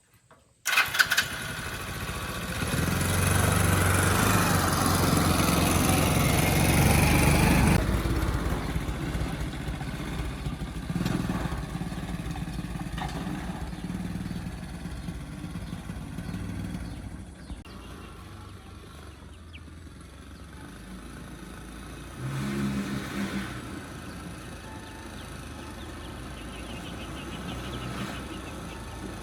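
A motorcycle engine cuts in suddenly and runs, loudest over the first several seconds, then settles to a quieter steady running sound, with a short louder rise about twenty-two seconds in.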